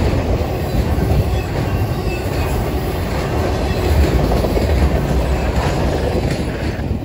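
Freight train cars carrying highway trailers rolling past: a steady low rumble of wheels on rail with a clickety-clack of wheels over the rail joints. The sound drops away sharply near the end as the last car goes by.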